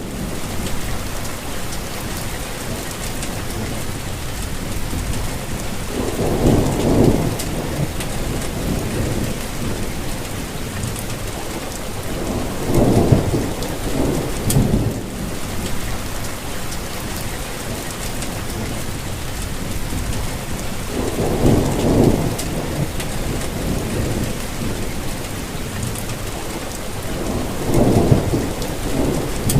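Steady rainfall with a dense hiss of drops, and low rumbles that swell and fade four times.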